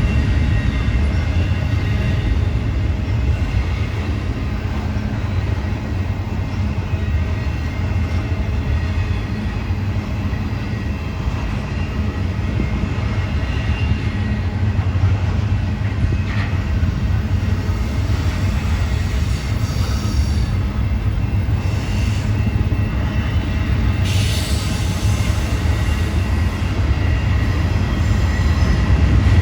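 Freight train rolling past: a steady heavy rumble of wheels on rails, with thin high-pitched wheel squeal running through it, stronger a little after twenty seconds in.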